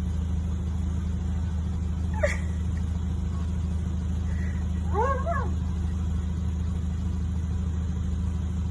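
A steady low hum, with an animal's short cry about two seconds in and a rising-then-falling call, like a cat's meow, about five seconds in.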